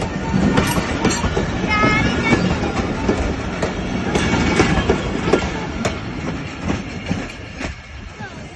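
Passenger train's carriages rolling past, wheels clacking over the rail joints, the sound fading near the end as the tail of the train leaves.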